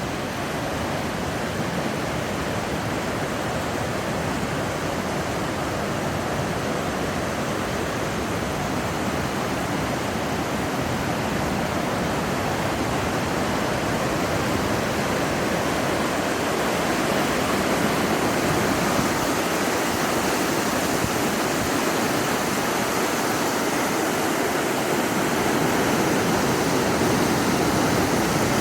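Stormy mountain river rushing over rocks: a steady, dense wash of white water that grows slightly louder in the last few seconds.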